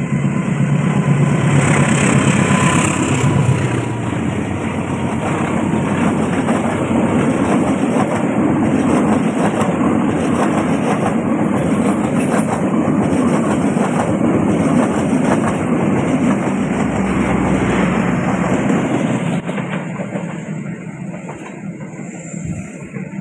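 CC 206 diesel-electric locomotive passing close, its engine rumble loudest in the first few seconds, followed by the steady clatter of its passenger carriages' wheels on the rails. The sound fades as the train moves away near the end.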